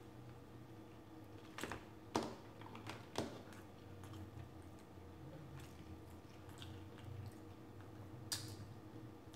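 Close-up eating sounds of corn on the cob being bitten and chewed, with a few sharp wet mouth clicks and smacks, the loudest about two and three seconds in and again near the end.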